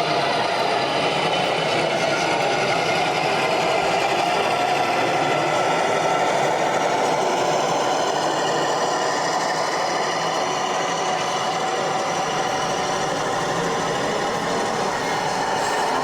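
Model train running on an exhibition layout: a steady, unbroken mechanical running sound.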